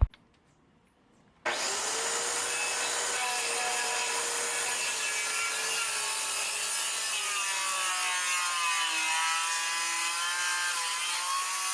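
Power saw cutting into a pressure-treated 4x4 post to make a half-lap joint. It starts about a second and a half in and runs steadily, with a wavering whine as the blade works under load.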